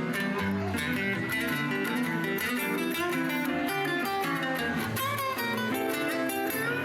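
Live rock and roll band playing an instrumental guitar break, lead guitar notes bending over a steady bass line.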